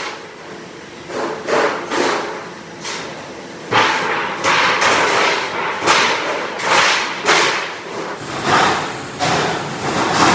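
An irregular series of sharp knocks and short noisy strikes, about one or two a second, from work on a factory floor.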